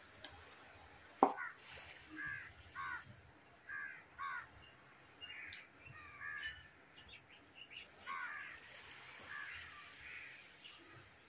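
Crows cawing over and over, short harsh calls, with a single sharp knock about a second in.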